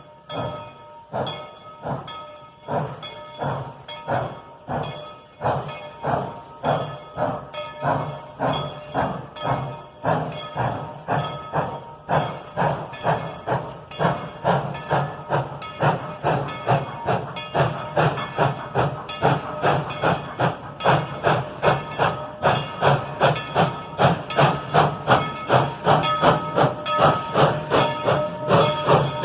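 Narrow-gauge steam locomotive working away from a stop, its exhaust chuffs speeding up from about one a second to two or three a second and getting louder as it draws closer.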